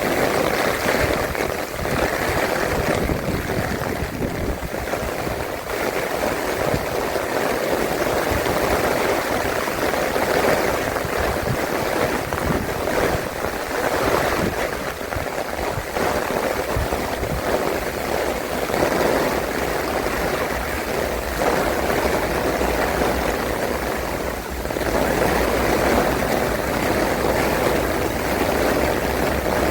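Strong storm wind buffeting the microphone, with rain, in loud rushing gusts that rise and fall. About halfway through, a steady low rumble sets in beneath it.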